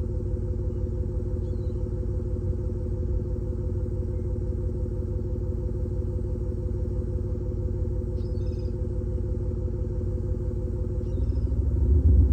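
Prius PHV's THOR exhaust speaker playing a simulated Mercedes-AMG S63 V8 exhaust note mixed with the car's own engine: a steady low idle burble that begins to rev up near the end.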